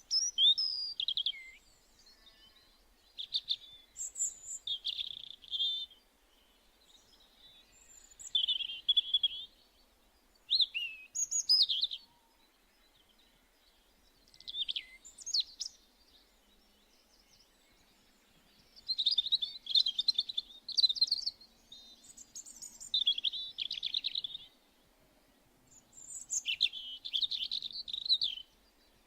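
A small songbird singing: short, varied, high-pitched warbling phrases, about nine of them, each a second or two long with pauses in between.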